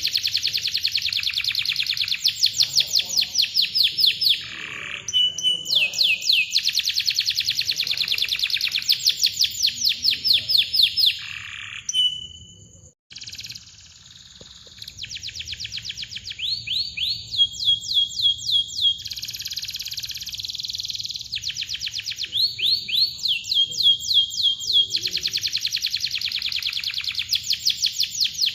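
Domestic canary singing long, fast, tightly packed trills of repeated chirps, each run lasting several seconds, with a short break about halfway through.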